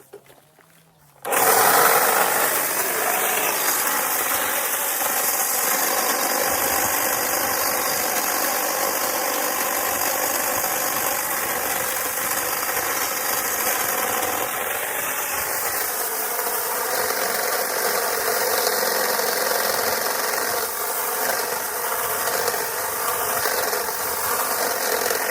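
A power tool's motor running steadily under load while trimming tree limbs. It starts suddenly about a second in and holds an even, buzzing pitch with small shifts until it cuts off right at the end.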